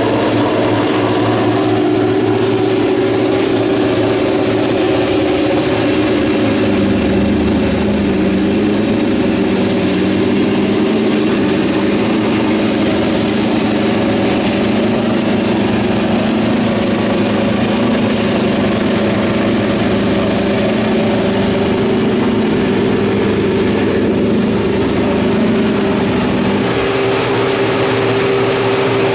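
Race car engine idling steadily at close range, its note shifting slightly about seven seconds in and again near the end.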